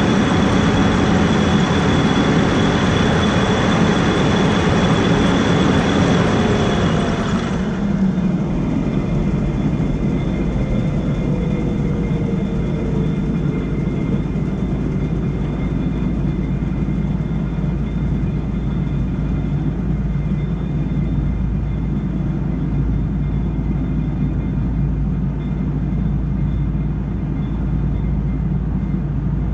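Heavy harvest machinery running loudly. About seven seconds in, the higher-pitched noise cuts off abruptly and a tone slowly falls as something winds down, leaving a steady low engine sound.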